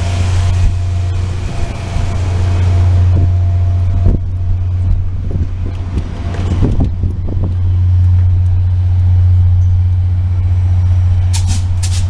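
VIA Rail passenger train standing at the platform, giving a steady low rumble, with a few scattered knocks in the middle and several short, sharp hisses of air near the end.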